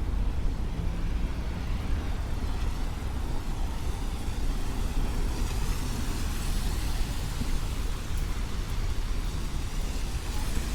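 City street traffic on a rain-wet road: a steady low rumble of vehicles under a hiss that swells in the middle.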